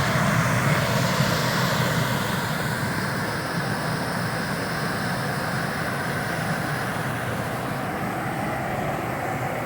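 Waterfall: a steady rush of falling water, even throughout.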